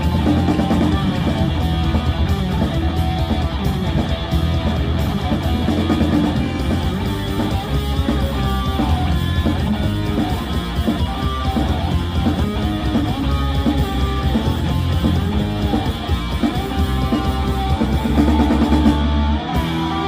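Rock band playing live: electric guitar over drum kit and bass, with no singing heard.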